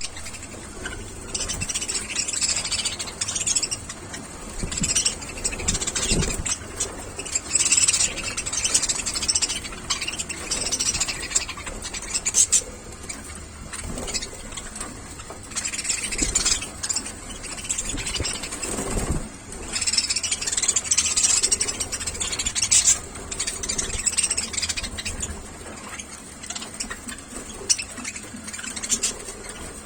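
Budgerigars chirping and chattering in bouts that come and go, with a few low bumps now and then.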